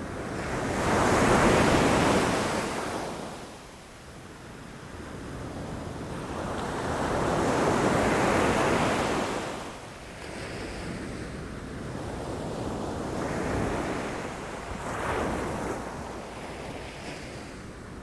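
Ocean waves breaking against rocks, each one swelling into a rush of surf and draining away, two big ones early on then smaller ones, with wind rumbling on the microphone.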